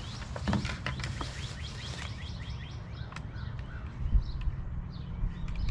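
Small birds chirping over and over over a steady low rumble, with a few sharp light clicks in the first couple of seconds and a low thump about four seconds in.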